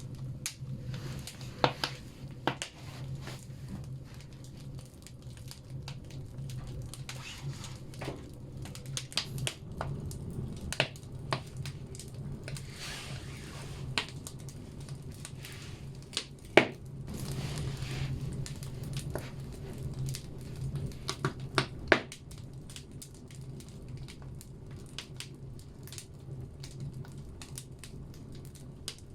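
Wood logs burning in a banya stove's firebox: irregular sharp crackles and pops over a steady low hum, the loudest pops about 16 and 22 seconds in, with a couple of brief spells of hissing.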